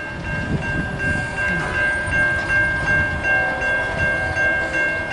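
Loaded CSX coal train rolling past with a steady low rumble, over a high ringing made of several held tones that pulse on and off.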